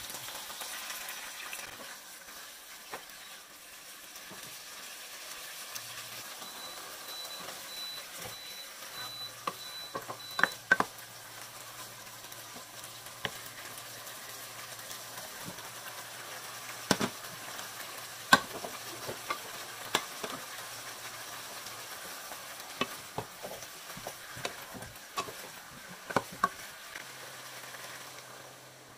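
Pork chunks sizzling as they brown in a pot, stirred with a wooden spoon. There are scattered sharp knocks of the spoon and food against the pot, several in quick pairs.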